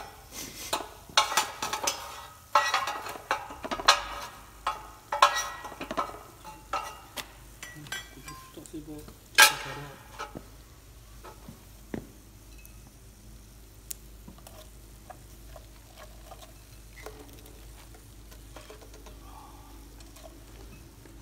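Chicken skin frying in oil in a frying pan, crackling in loud, irregular bursts for about the first ten seconds, then settling to a faint sizzle.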